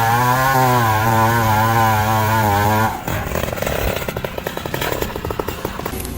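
A chainsaw engine running at high speed with a wavering pitch, cutting off abruptly about three seconds in. A quieter, rapid irregular crackling and clattering follows.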